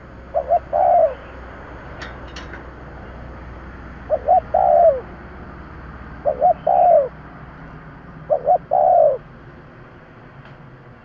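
Spotted dove cooing: four phrases, each two short coos followed by a longer, falling coo, repeated every two to four seconds.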